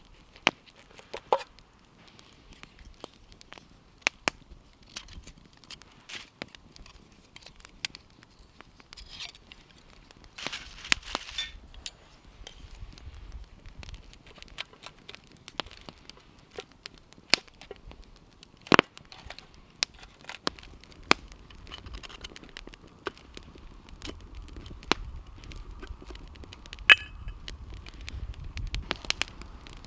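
Campfire burning, the wood crackling with irregular sharp snaps and a few louder pops. There is a brief rustle about a third of the way through.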